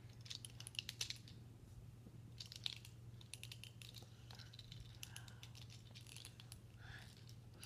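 Faint clicking and scratching of a small plastic toy monster truck being handled, its snap-on wheels being pulled off and fitted, in several short clusters of clicks.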